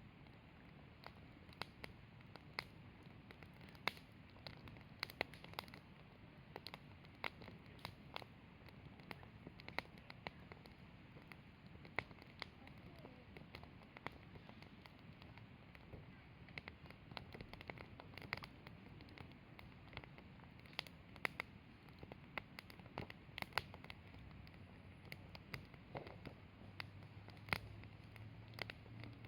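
Wood fire burning in a Snow Peak fire stand, crackling and popping irregularly over a soft low rumble. A faint steady low hum comes in near the end.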